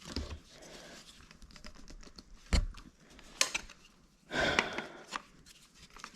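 Hand tools working on a dirt-bike engine: a few sharp clicks and knocks, with a short rustling burst about four and a half seconds in.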